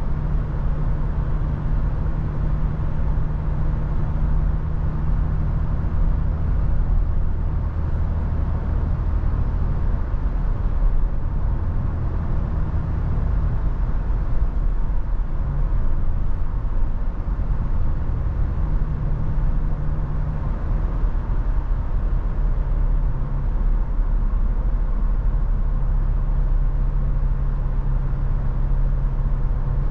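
Toyota FJ Cruiser driving at road speed: a steady low rumble of engine, tyres and wind, with an engine hum that shifts in pitch now and then.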